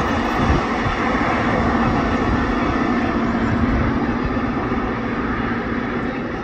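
Train passing close by: a loud, steady rumble of wheels on rails, easing slightly towards the end.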